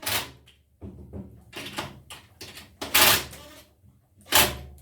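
A series of short knocks and scrapes from parts of a wooden and metal bandsaw jig being handled and fitted. There are about seven in under five seconds, with the loudest about three seconds in and near the end.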